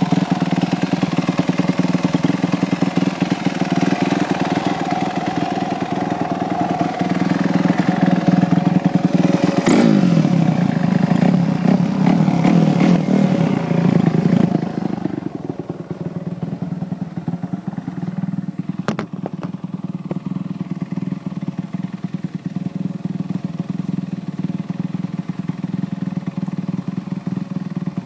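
2007 Kawasaki KX250F's four-stroke single-cylinder engine, through a Pro Circuit Ti-4 titanium exhaust, running at idle. About ten seconds in it is blipped once and the revs fall back over a few seconds; after about fifteen seconds the engine sounds quieter and idles on steadily.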